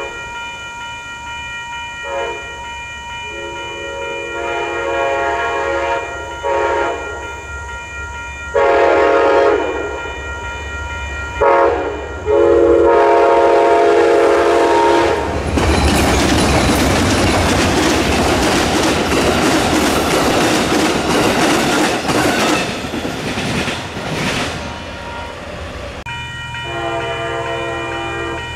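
A train's air horn sounding a series of long and short blasts, the last one held until the train arrives. The train then passes loudly, its wheels clacking over the rail joints, and a fainter horn sounds again near the end.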